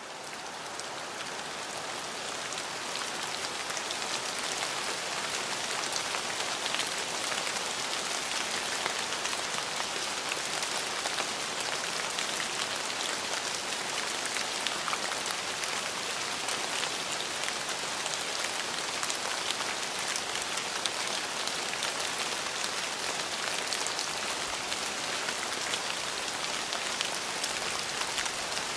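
Steady rain falling on a surface, a dense patter of small drops, swelling up over the first few seconds and then holding steady.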